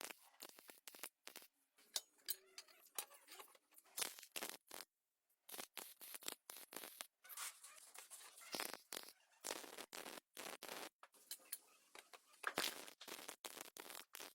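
A rapid, irregular series of sharp clicks and short scrapes, with brief gaps of quiet about five seconds in and eleven seconds in.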